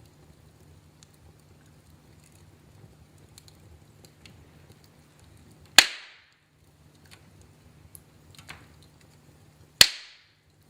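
Wood fire in a fireplace crackling over a low steady rumble, with scattered small ticks and two loud sharp pops, about six seconds in and near the end, plus a softer pop between them.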